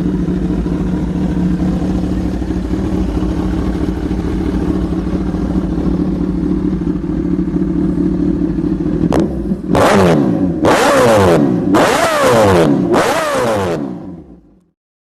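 A 1000 cc motorcycle engine idling steadily through its exhaust. About nine seconds in, the throttle is blipped four times in quick succession, each rev rising sharply and falling back. The sound then fades out.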